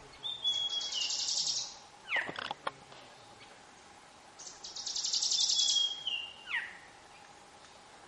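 A bird calls twice, about four seconds apart. Each call is a high, buzzy rattle over a thin whistled note and ends in a sharp, steeply falling note.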